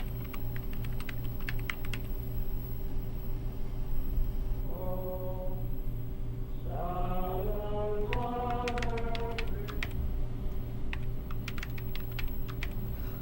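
Typing on a computer keyboard: quick runs of key clicks near the start and again through the second half. From about five seconds in, a wordless vocal phrase sliding up and down in pitch overlaps the typing for several seconds, over a steady low hum.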